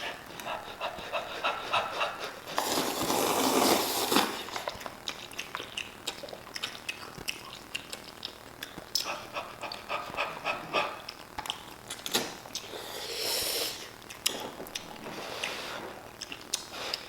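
People slurping and chewing noodles fast, with many small clicks and smacks throughout and two longer, louder slurps, one about three seconds in and another later on.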